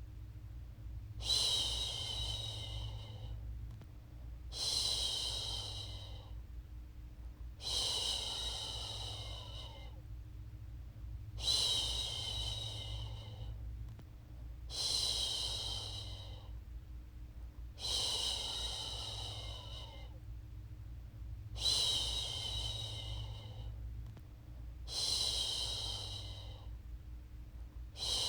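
A woman's voice shushing a baby, a long hissing "shhh" of about two seconds repeated steadily about every three and a half seconds, eight times, with a faint low hum underneath.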